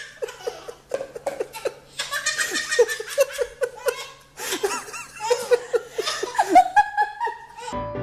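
High-pitched hearty laughter in runs of quick repeated bursts. Piano music starts just before the end.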